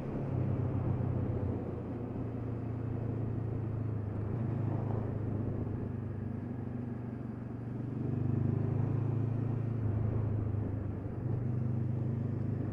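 2013 Honda CB500X's parallel-twin engine running under way through a Staintune exhaust, a steady note that swells louder for a couple of seconds past the middle before easing back.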